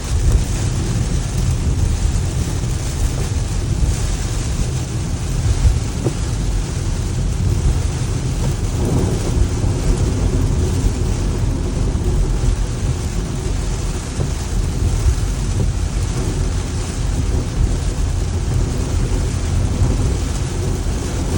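Heavy rain and tire spray on a car driving through standing water on a highway, heard from inside the cabin. A steady low rumble and rush as the water thrown up by the tires drums on the underbody.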